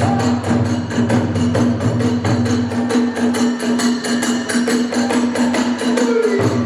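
Kagura music: drums and hand cymbals keep a fast, even beat over a steady held note.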